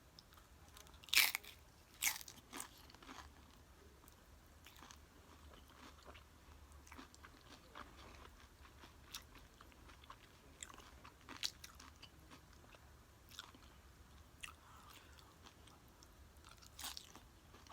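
A person biting into and chewing nachos close to the microphone: two loud crunches of tortilla chips in the first couple of seconds, then quieter scattered crunching and chewing, with louder crunches again near the middle and near the end.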